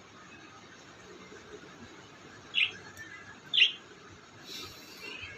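A pet parrot giving two short, sharp chirps about a second apart, each falling in pitch, followed by a fainter, scratchier sound.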